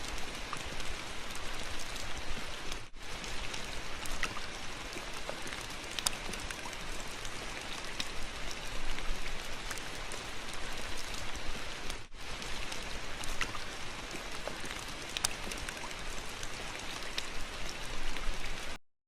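Steady rain: a dense patter of drops with sharp individual drop ticks. It breaks off for an instant twice and stops suddenly near the end.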